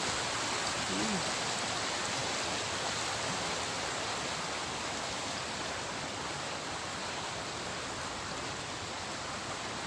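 Steady rush of flowing river water, getting slightly quieter over the few seconds.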